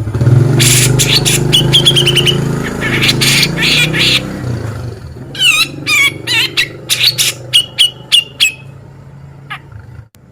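Cucak jenggot (grey-cheeked bulbul) calling: harsh rasping bursts, then a run of sharp, clipped whistled notes with quick downward sweeps, stopping shortly before the end. A low steady hum runs under the first half.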